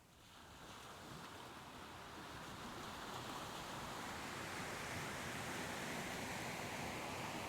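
Soft ocean waves washing in: the surf swells over the first few seconds and then holds as a steady rush.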